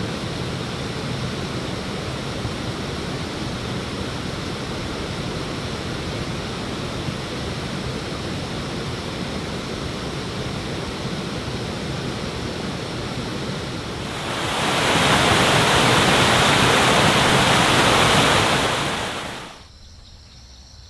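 Steady rushing noise that swells much louder for about five seconds near the end, then cuts off abruptly to a much quieter background.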